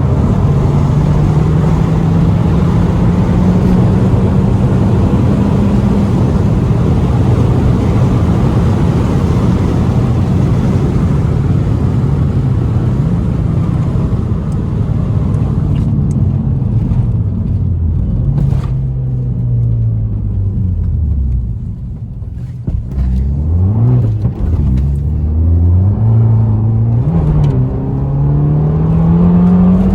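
Fiat Abarth 595's turbocharged 1.4-litre four-cylinder, stock exhaust, running under way. The engine note climbs slowly, wavers, drops away about two-thirds of the way through as the car slows, then climbs steadily again near the end.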